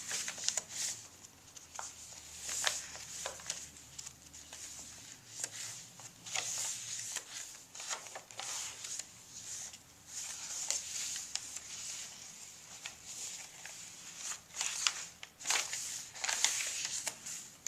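Pages of a handmade paper junk journal being turned and handled: irregular rustling with short clicks and taps.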